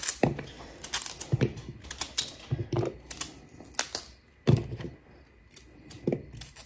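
Kitchen clatter from cutting vegetables: irregular knocks and clicks of a knife and food on a cutting board, with a few heavier thumps among them.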